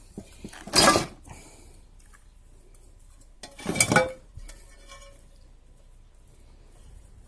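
Two short bursts of metallic clattering about three seconds apart, from the old welder and metal tools being moved and knocked together as it is turned around.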